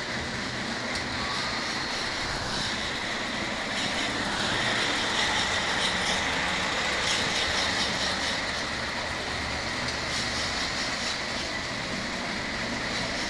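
O-gauge model train running along its track: a steady rolling rumble with a steady high whine and faint clicks, a little louder a few seconds in.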